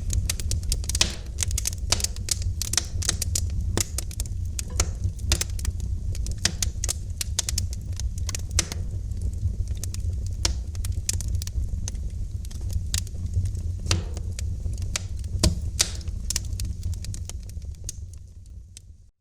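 Wood fire crackling in a fireplace: many sharp, irregular pops and snaps over a steady low rumble of burning flames. The sound fades out and drops away just before the end.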